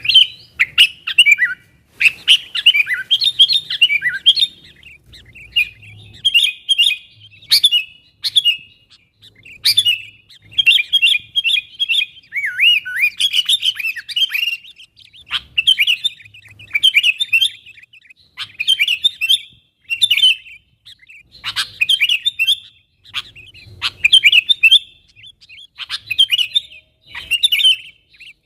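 Sooty-headed bulbul (kutilang) calling in short, chattering, chirpy phrases, one after another about once a second with brief pauses between them: a lively contact call of the kind used to lure wild bulbuls.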